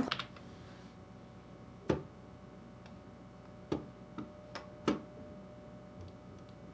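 A handful of light, sharp clicks at uneven intervals, the loudest about two and five seconds in: a spoon clinking against a cereal bowl while eating cereal.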